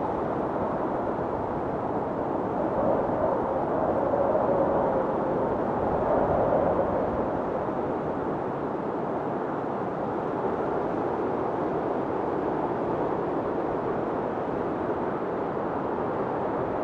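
Blizzard wind blowing steadily, gusting a little louder about three and six seconds in, with a faint howling whistle riding over the rush.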